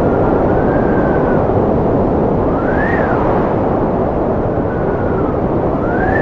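Strong wind blowing with a steady rush, and a whistling tone that rises and falls several times as the gusts come and go.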